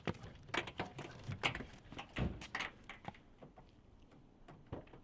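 A series of sharp knocks and thuds, about half a dozen in the first three seconds, then a few fainter taps.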